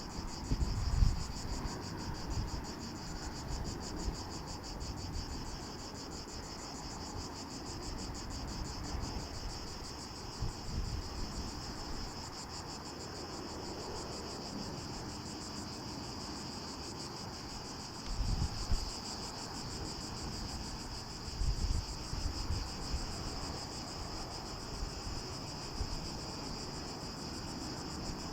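A steady chorus of insects, a high, fast-pulsing drone, with a few short gusts of wind on the microphone about a second in and again near 18 and 22 seconds.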